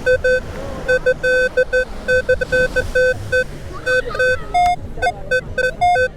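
Metal detector giving rapid, repeated short target-tone beeps, mostly on one low tone, with a few higher-pitched beeps in the last couple of seconds: it keeps sounding off on metal in the sand.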